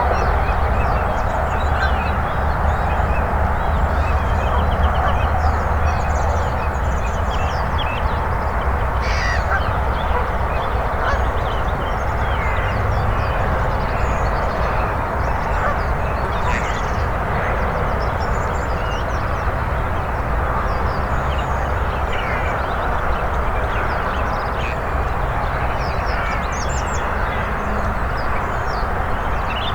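Waterfowl and small birds calling: geese honking amid many short chirps and calls, over a steady low rumble.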